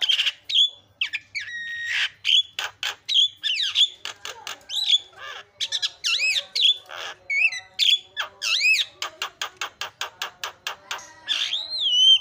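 Javan myna singing vigorously: a fast, varied string of clear whistles that swoop up and down, mixed with harsh scratchy notes and, about nine seconds in, a quick rattle of clicks.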